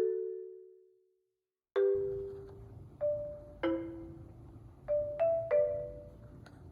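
Background music played on a marimba-like mallet instrument: single struck notes that ring and fade, about one every second. The music drops to silence for under a second about one second in.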